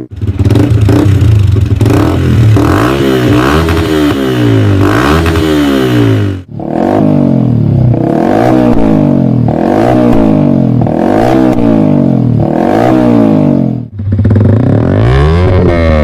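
Yamaha MT-15's single-cylinder engine revved repeatedly through its exhaust, the pitch climbing and falling with each throttle blip over a steady idle. The sound breaks off briefly twice, as if cut.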